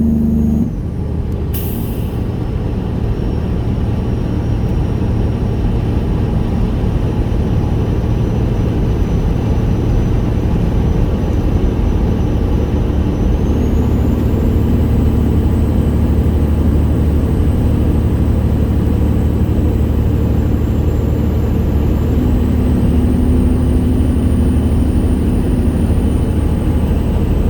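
1999 Peterbilt 379's straight-piped Detroit Series 60 diesel running on the road. Its strong engine note drops off less than a second in, a brief sharp hiss of air follows just under two seconds in, and then a steady rumble carries on, with a high whine that rises in pitch about halfway through and again near the end.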